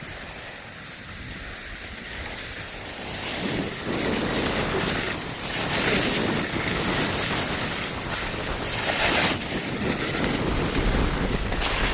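Wind rushing over the microphone and skis hissing on snow during a downhill run. The rush builds about three seconds in, and the hiss swells every few seconds.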